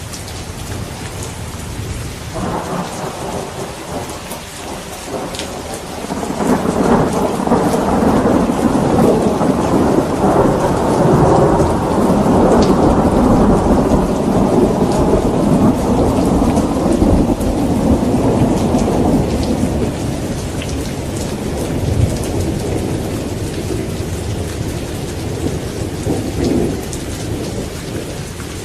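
Steady rain falling, with a long rolling peal of thunder that begins faintly, swells loud a few seconds in and rumbles on for about fifteen seconds before slowly fading.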